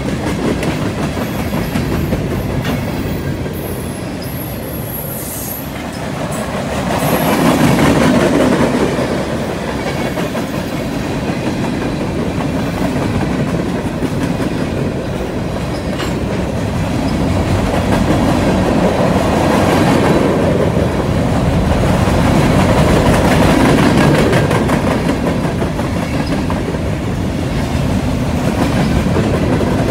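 Freight train's tank cars and covered hopper cars rolling past, steel wheels clacking over rail joints in a continuous rumble that swells and eases as the cars go by.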